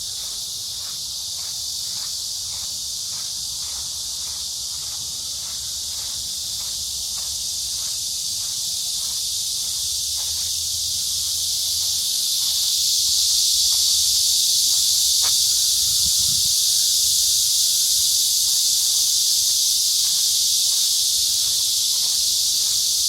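Summer insect chorus in the trees: a dense, steady high buzz that swells louder about halfway through. Faint regular footsteps, about two a second, sound underneath.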